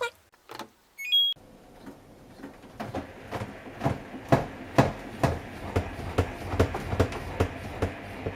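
Samsung Eco Bubble washing machine on a bedding cycle: a short electronic beep about a second in, then the machine running with a steady hum and a rhythmic series of knocks, about two to three a second, that grow louder as the drum turns the load.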